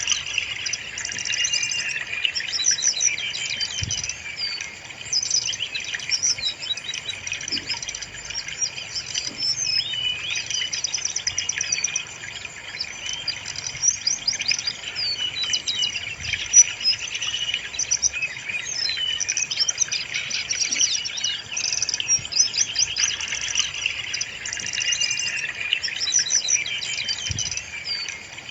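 Brown-chested jungle flycatcher singing without pause: a dense, high-pitched run of fast trills and chattering phrases that overlap one another.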